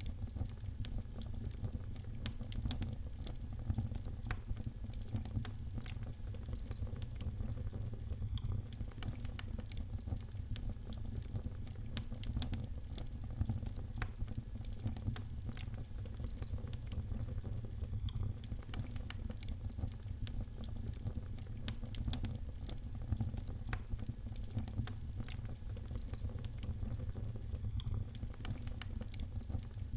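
Fire in a fireplace crackling, with many quick, irregular sharp pops over a steady low rumble.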